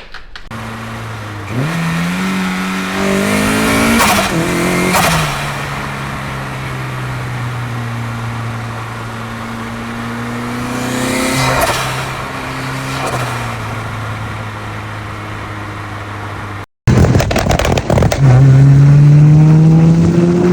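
Turbocharged Honda S2000's four-cylinder engine revving. Revs climb in the first few seconds, with a couple of sharp cracks about four to five seconds in, then settle to a steady idle. A much louder rising rev comes near the end.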